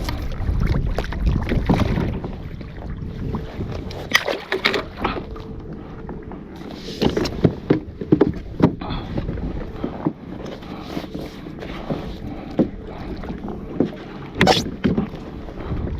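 Choppy water lapping and splashing against a kayak, with wind rumbling on the microphone and a scatter of sharp splashes and knocks, the loudest near the end.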